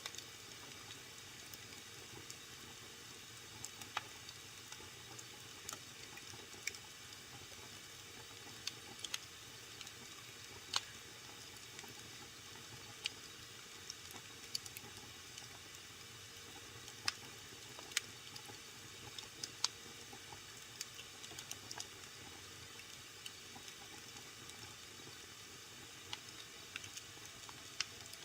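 Wood fire in a fireplace crackling: a steady soft hiss with irregular sharp pops, a few of them louder, about every second or two.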